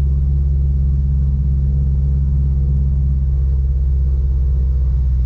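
Piper Apache's left piston engine running steadily at about 2200 RPM on the ground, leaned to a roughly 100 RPM drop to burn lead deposits off its fouled spark plugs, heard from inside the cabin.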